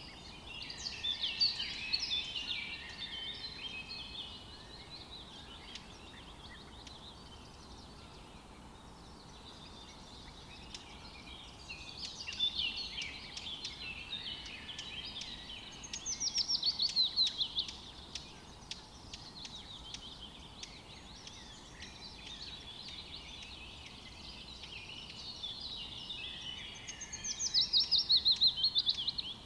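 Forest birdsong: several birds singing in chirps and trills over a faint steady hiss, with two loud rapid trills falling in pitch, one about halfway through and one near the end.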